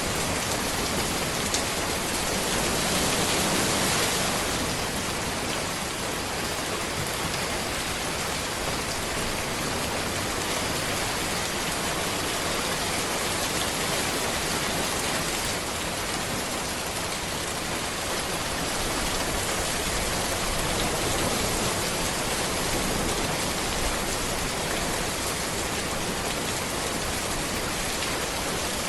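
Steady rain falling on a road, an even, dense hiss of drops, swelling slightly a few seconds in.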